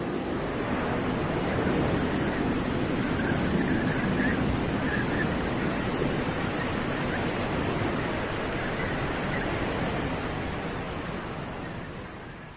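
Steady rushing outdoor noise of a snowstorm street, wind on the microphone mixed with traffic, fading away near the end.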